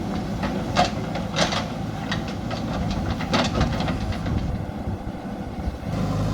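JCB backhoe loader at work: its diesel engine running steadily, with irregular metallic clanks and rattles as the machine digs into earth and rock.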